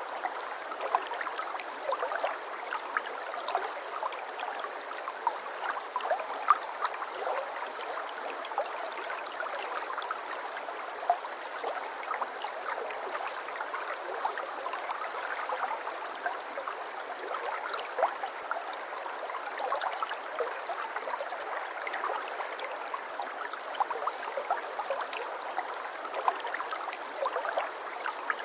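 A shallow brook babbling, a steady flow with many small trickling and splashing spikes.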